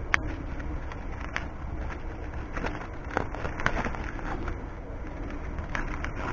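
Wood fire crackling, with irregular sharp pops over a steady low rush; the sharpest pop comes just after the start.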